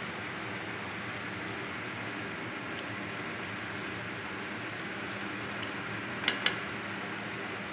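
Vegetable masala sizzling steadily in an aluminium pot, with two sharp knocks of a utensil against the pot close together near the end.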